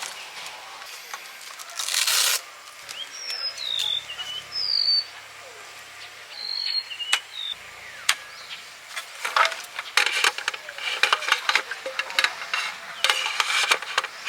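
Rustling and light knocks of things being handled, growing busier with many small clicks in the second half, with several short high chirps between them around the middle.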